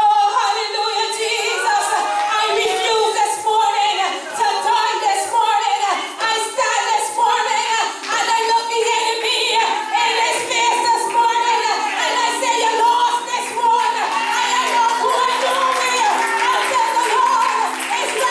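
Singing in a church service, with instrumental backing.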